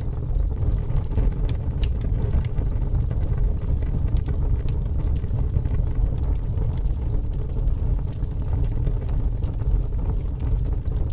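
Fire burning with a steady low rumble, with many small sharp crackles and pops scattered throughout.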